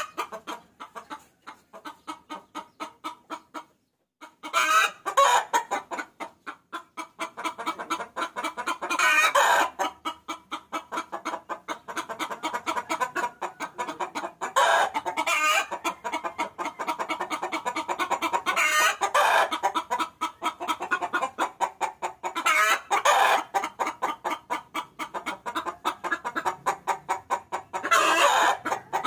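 A hen cackling: a fast run of short clucks, several a second, broken every few seconds by a longer, louder call. It is a hen's call that draws roosters to her.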